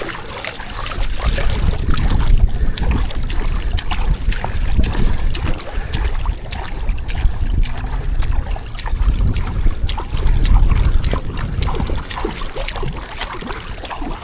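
Kayak paddling: water splashing and dripping off the paddle blades in many small sharp splashes, with wind rumbling on the microphone.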